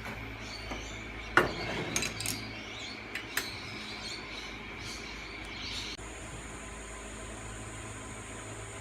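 Metal tools and lathe parts clinking and clanking, with one sharp ringing clank about a second and a half in and a few lighter clicks after it. A few seconds later the background changes abruptly to a steady high-pitched tone.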